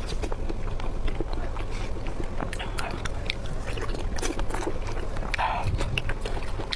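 Close-miked chewing and biting of food, with many irregular small clicks and smacks from the mouth.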